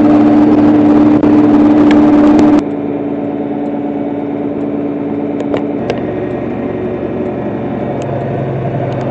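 A 4055 tractor's diesel engine running steadily while driving. About two and a half seconds in, the sound cuts suddenly to a quieter, steady engine hum.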